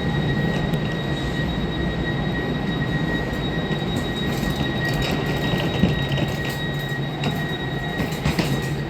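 Train at a station: a steady low rumble with a steady high whine that stops about eight seconds in, and a few sharp clicks in the second half.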